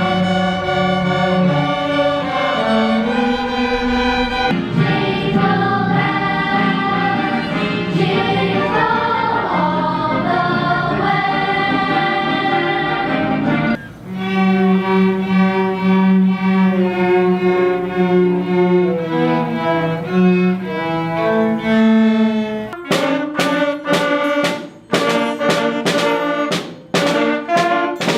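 School orchestra with bowed strings playing a piece of music. The music breaks briefly about halfway and resumes in a new passage. In the last few seconds the notes turn short and sharply struck.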